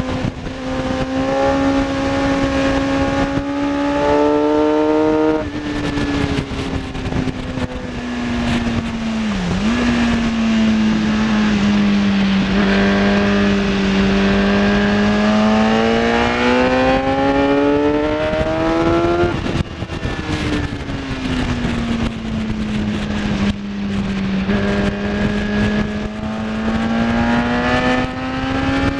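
Kawasaki ZX-10R's inline-four engine at full track pace, its pitch climbing steeply under acceleration, then stepping down or falling away off the throttle several times, with wind rushing over the microphone.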